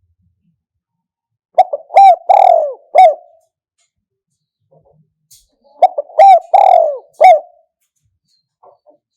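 Spotted dove cooing: two phrases a few seconds apart, each a couple of quick short notes followed by three longer, lower coos.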